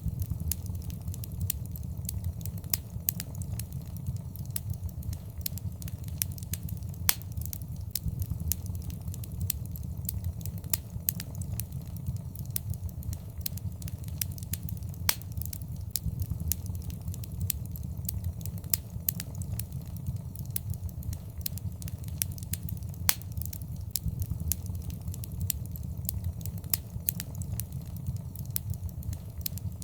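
Wood fire burning in a fireplace: a steady low rumble of the flames with irregular crackles and occasional sharper pops.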